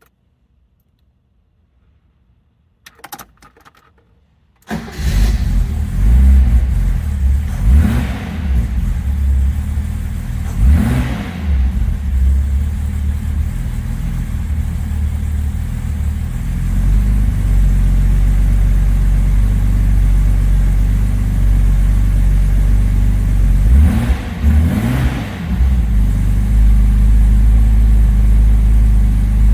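1970 Mercedes-Benz 280SL's 2.8-litre inline-six engine on a cold start: it fires about five seconds in, is revved up and let fall a few times (around eight, eleven and twenty-five seconds in), and settles into a steady idle.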